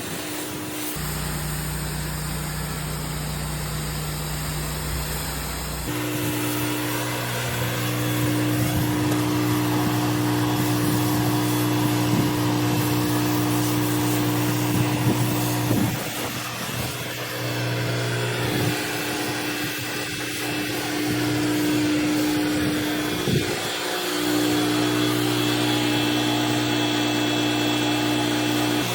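Pressure washer running steadily, its engine hum under the hiss of the high-pressure water spray. The sound shifts about six seconds in and dips briefly a few times afterwards.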